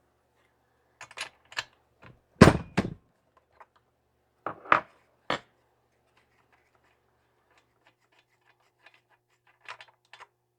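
Scattered clicks and knocks of hand tools and chainsaw parts being handled as the spark plug is pulled, with one louder knock about two and a half seconds in and a few more about five seconds in.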